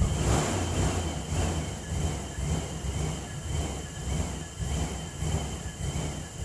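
2016 GMC Savana 2500 van engine running at idle, its sound swelling and fading in an even rhythm about twice a second.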